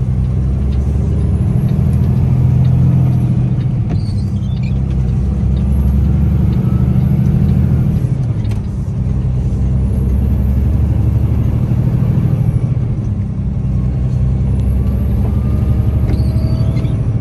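Tractor-trailer's diesel engine running steadily, heard from inside the cab while driving: a low drone that eases briefly about eight seconds in and again around thirteen seconds.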